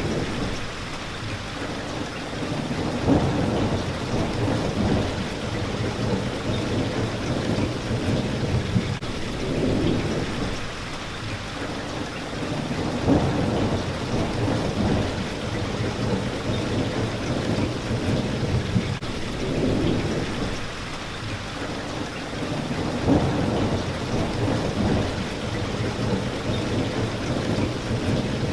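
Steady rain hitting a window pane, with low thunder rumbling in and out underneath and a few sharper louder drop impacts, about ten seconds apart.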